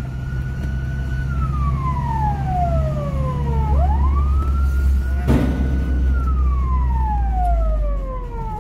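Fire engine siren wailing: each cycle sweeps quickly up, holds, then slides slowly down, twice, over the low steady hum of an engine. A single sharp knock comes about five seconds in.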